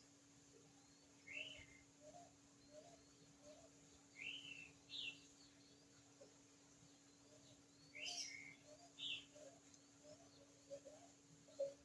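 Faint bird chirps: about five brief high calls at irregular intervals, over a steady low hum.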